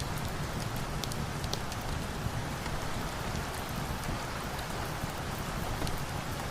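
Steady rain falling, an even wash of noise with scattered sharp little ticks through it.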